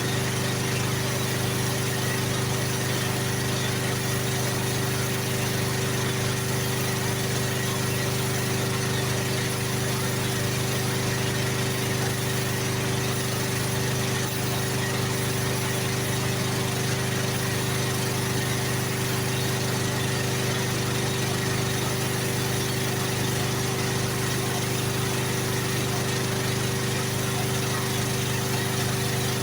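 A motor-driven machine running steadily, with a constant low hum and an even hiss and no change in pace or level.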